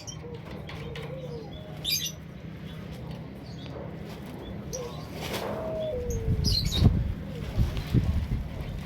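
Small caged finches giving a few short, high chirps, with a rough, fluttery rustle coming in from about six seconds in.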